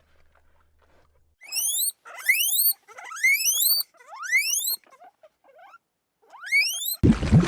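An animal giving five high-pitched squeals, each rising sharply in pitch and lasting about half a second. A loud rushing noise cuts in suddenly near the end.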